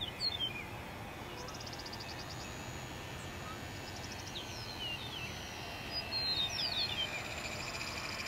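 Wild birds calling over steady outdoor background noise: quick runs of sharp, downward-slurred whistles near the start and again about six seconds in, with rapid high trills in between.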